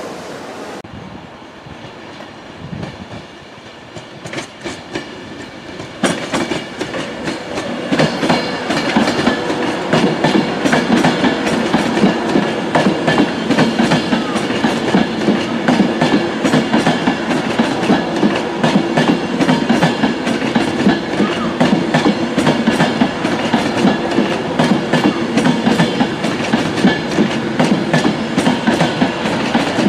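An Avanti West Coast Class 390 Pendolino electric train running past on the track, with its wheels clacking in a fast, even run of clicks over the rail joints and a steady rumble underneath. It comes in loudly about six seconds in.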